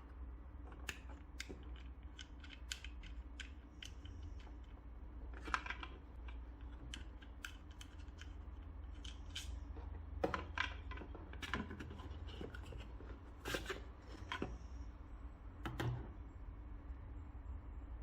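Packaging and parts of a pocket-hole jig kit being handled and unpacked: irregular sharp clicks, taps and snips over a low steady hum.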